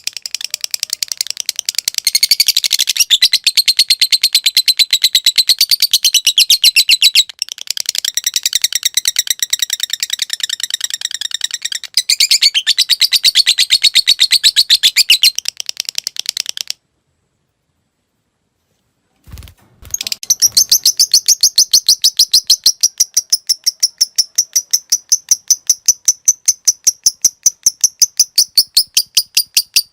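Lovebird singing a long 'ngekek' trill: a very fast, unbroken run of sharp, high chattering notes. It cuts off abruptly about 17 seconds in, a short low thump follows about two seconds later, and the trill starts again about 20 seconds in, steadier and more even.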